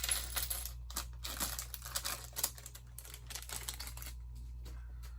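Plastic bags of Lego pieces being handled, crinkling with scattered small clicks and crackles.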